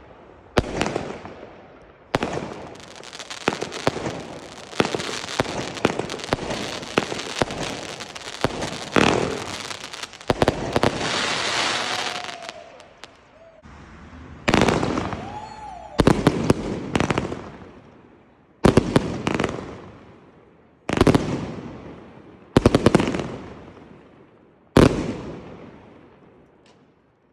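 Fireworks going off: a dense run of sharp bangs and crackles in the first half, with a steady hiss around the middle, then single loud bursts about every two seconds, each fading away in a long rolling echo. The bangs stop shortly before the end.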